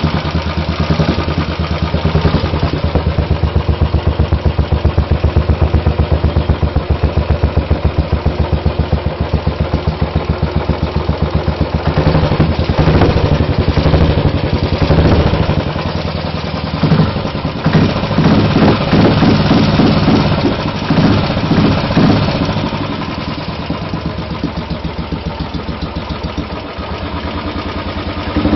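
Royal Enfield 500's single-cylinder engine running through an aftermarket MG-Race exhaust at idle, with an even, rapid thumping beat. Around the middle the engine speed rises and falls several times before it settles back to a quieter idle.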